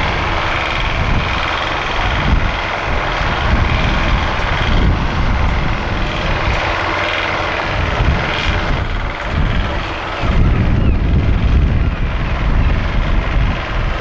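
A heavy engine running steadily, a loud continuous rumble that gets a little louder about ten seconds in.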